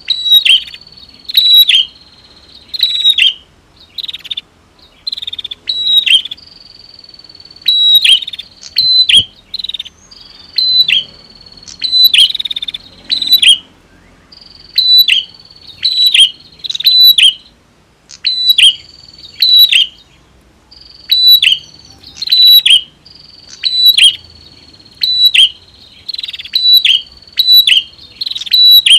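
Prinias (prenjak) calling: loud, sharp high notes in quick clusters of two or three, repeated every second or two, with a thin steady high trill held between many of the clusters.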